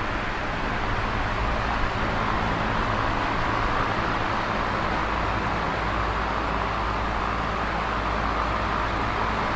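Electric fan running steadily: an even rush of air from the blades over a low, constant motor hum.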